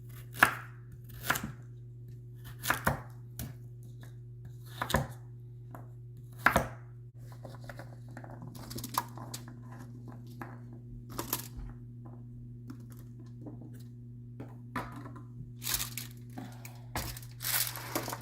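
Knife chopping vegetables on a cutting board: a few sharp, irregular knocks in the first seven seconds, then lighter rustling and crinkling, over a steady low hum.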